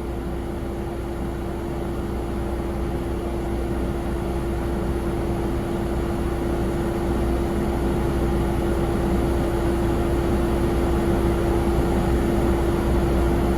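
Jet aircraft engines running, a steady low rumble with one held hum that slowly grows louder.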